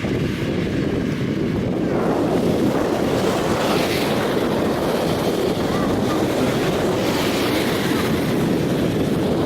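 Steady rushing wind noise on the microphone, growing fuller and brighter about two seconds in.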